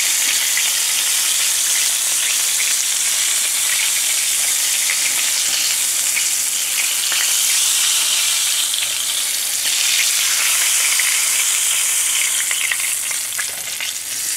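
Flour-coated oysters frying in hot oil in a cast-iron skillet: a steady sizzling hiss with fine crackles and pops. It eases a little near the end.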